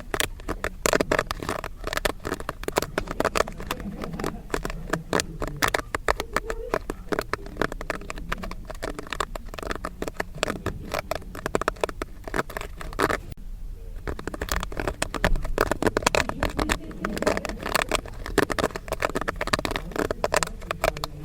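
Popcorn kernels popping rapidly and irregularly, a dense crackle of sharp pops that thins briefly about two-thirds of the way through.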